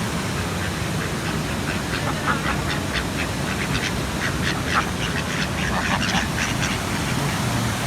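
Waterfall rushing steadily, with a quick series of short, sharp high-pitched calls over it through the middle seconds.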